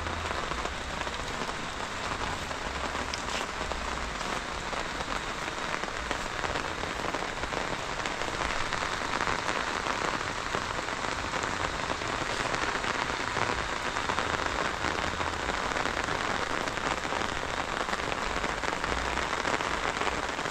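Steady rain falling, an even hiss of drops on the surfaces all around.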